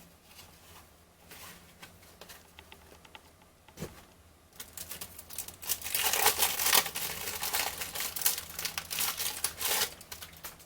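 Cellophane wrapper of a baseball card pack crinkling and tearing as it is opened, dense and loud over the second half, after a single knock about four seconds in.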